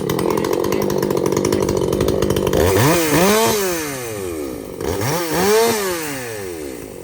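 Ported Echo CS-620PW chainsaw running at high revs, its engine pitch rising and falling twice.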